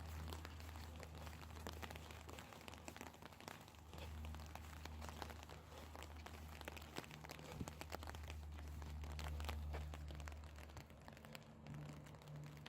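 Light rain tapping and crinkling close by, a dense scatter of small sharp ticks, over a low steady hum.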